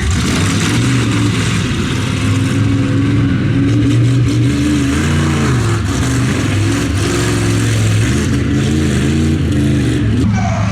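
Large truck engine running and being revved, its pitch rising and falling several times.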